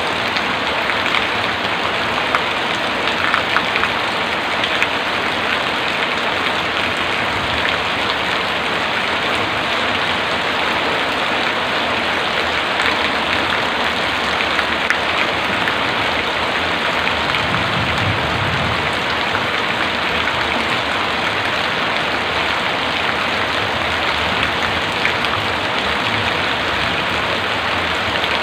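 Heavy rain falling steadily, with sharp drop hits scattered through it and a brief low rumble about two-thirds of the way in.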